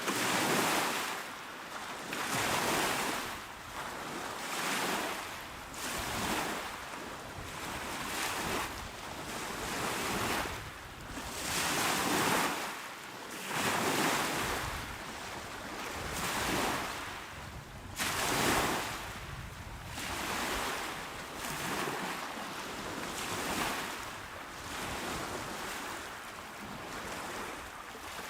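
Small, calm sea waves breaking on a shore, a steady wash of surf that swells and recedes every couple of seconds.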